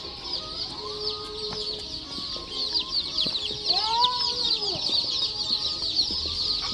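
A brooder full of baby chicks peeping continuously in a dense stream of rapid, high chirps. A longer, lower arching sound rises and falls about four seconds in.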